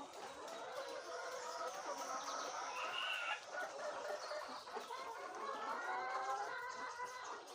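A flock of laying hens clucking, many calls overlapping continuously.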